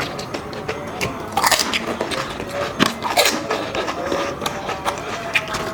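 Crisp panipuri (fuchka) shells crunching as they are bitten and chewed, a quick run of sharp cracks and mouth noises, loudest about a second and a half in and again near three seconds.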